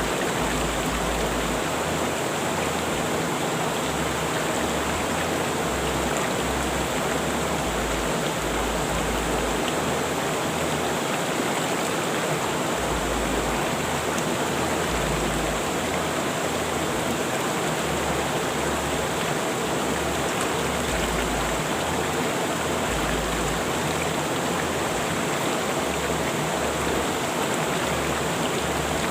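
Rushing river water: a steady, unbroken flow.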